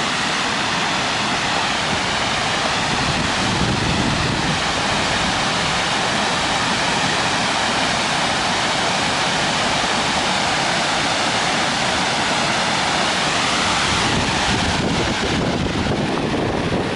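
Waterfall on a creek rushing with a steady, loud, even wash of falling water.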